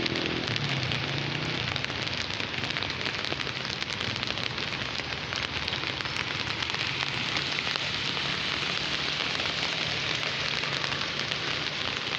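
Heavy rain falling steadily, a dense patter of drops. A motor's hum fades out about a second in.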